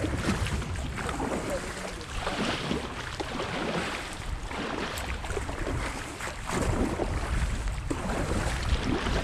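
Kayak being paddled hard through a gap in moving water: rushing water and irregular paddle splashes, with wind buffeting the microphone.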